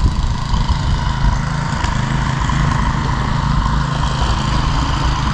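Snowblower engine running steadily as it clears snow.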